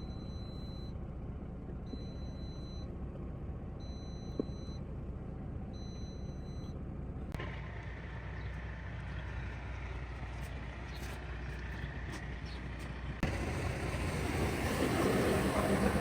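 A high electronic beeper sounds four times, each beep about a second long and about two seconds apart, over a steady low idling-engine rumble. In the last few seconds a louder hiss builds up.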